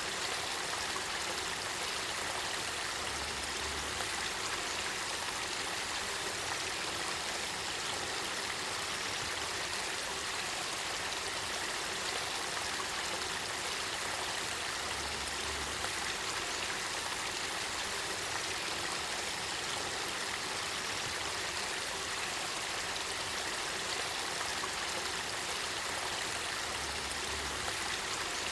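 Spring-fed river water of the Kakita River flowing, a steady, even rush of moving water.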